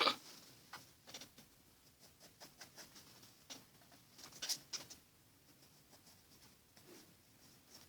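Pencil drawing on paper: short scratchy strokes at irregular intervals, with a sharp tap right at the start and a louder stroke about four and a half seconds in.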